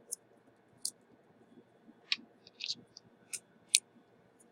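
Small tools clicking and tapping at an electronics repair bench: about seven light, sharp clicks at irregular intervals.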